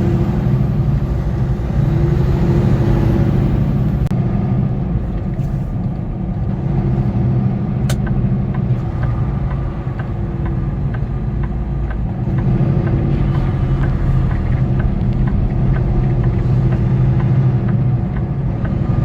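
Semi truck's diesel engine running as the truck pulls away: a steady low drone that eases off for a few seconds midway and then picks up again.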